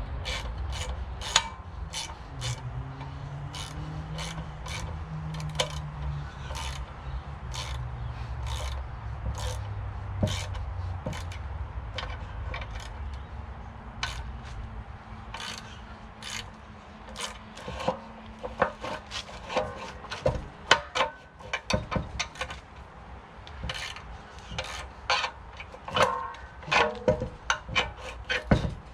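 Hand work on steel parts: repeated clicks and knocks with rubbing and scraping, coming thicker and louder in the second half, over a low wavering machine hum that fades out after about twelve seconds.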